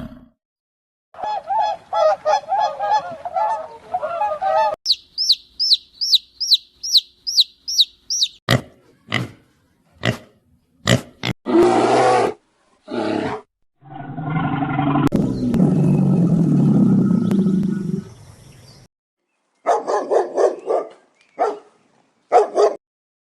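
A string of different animal calls cut one after another: warbling pitched calls, then a run of about eight quick high chirps, then short sharp calls, a long low rasping call, and a few more calls near the end.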